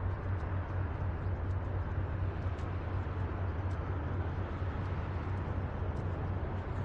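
Steady outdoor background rumble with a constant low hum and an even hiss, unchanging throughout.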